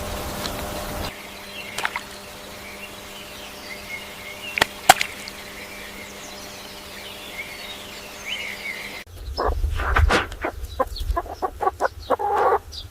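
Faint bird chirps over outdoor ambience with a few sharp clicks. After an abrupt change in the recording near the end, it becomes a busier patter of short taps and knocks with a brief call.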